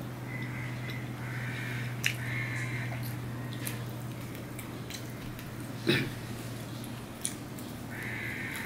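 A person eating rice and fried fish by hand, with chewing and mouth sounds and a few sharp clicks, the loudest about six seconds in, over a steady low hum.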